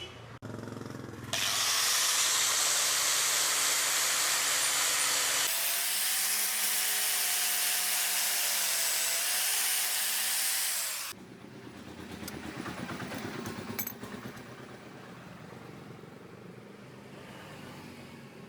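A power tool running with a loud hiss for about ten seconds, its motor pitch stepping up partway through, then cutting off suddenly; quieter rubbing follows.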